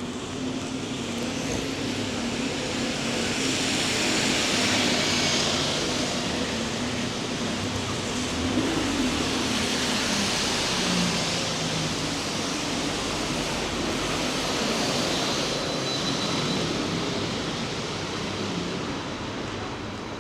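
Traffic on a rain-wet street: tyre hiss swelling as vehicles pass, twice building and fading over several seconds, with a low engine hum underneath.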